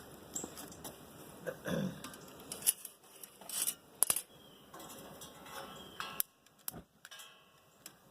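Scattered metal clinks and knocks as a turkey is worked into a tight-fitting fryer pot, a few sharp ones close together about halfway through.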